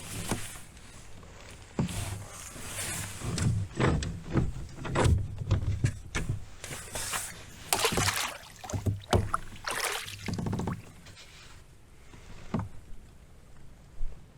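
Irregular knocks, bumps and scrapes of handling aboard a fishing kayak. They are busiest in the middle and thin out near the end.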